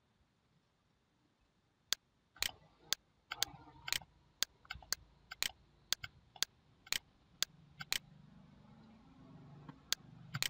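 Computer mouse button clicked repeatedly to step through pages of a print preview. The clicks are sharp and come about two a second for some six seconds, then pause, with two more near the end.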